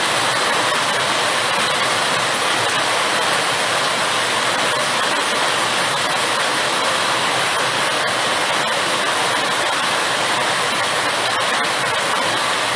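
Floodwater rushing loudly and steadily after heavy rain, a constant even roar of running water.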